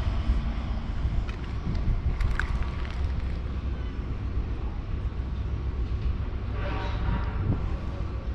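Steady low outdoor rumble, like wind on the microphone or far-off traffic, with a brief faint pitched sound about seven seconds in.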